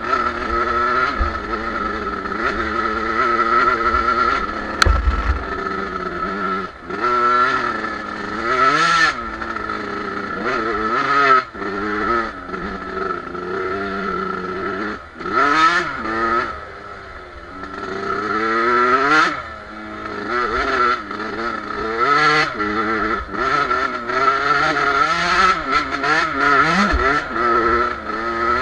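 Suzuki two-stroke motocross bike engine being ridden, its pitch rising under throttle and dropping back again and again.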